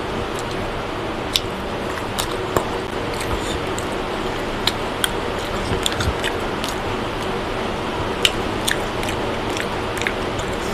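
Close-up eating of mutton biryani by hand: chewing with wet mouth smacks and clicks at irregular moments, over a steady hiss.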